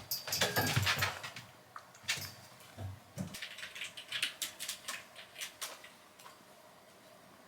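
Kitten romping on a hard floor: rapid clicking and tapping of paws and claws with a few dull thumps in the first three seconds, thinning to light taps that die away after about six seconds.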